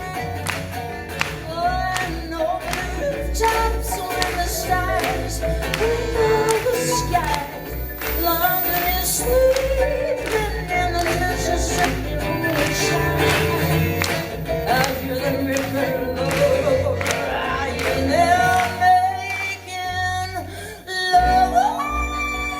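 Live folk-pop band playing, a woman's voice singing a wordless melody over bass, guitar and drums. Near the end the bass drops out for a moment before the band comes back in.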